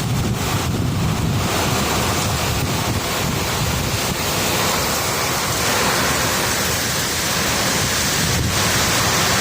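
High storm winds blowing hard and buffeting the microphone with a low rumble, under a steady hiss that grows fuller about a second and a half in.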